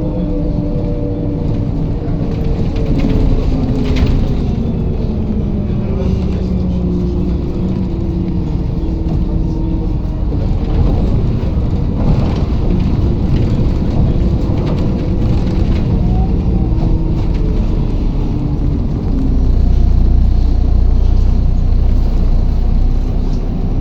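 Inside a MAZ-107.468 city bus on the move: the engine runs, its pitch falling over the first few seconds as the bus eases off, then a steady drone of engine and road noise, with a louder low rumble near the end.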